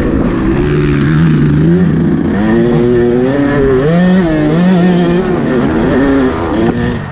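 Yamaha YZ125 two-stroke motocross bike engine being ridden hard, its revs rising and falling again and again under throttle and gear changes. The revs drop briefly near the end.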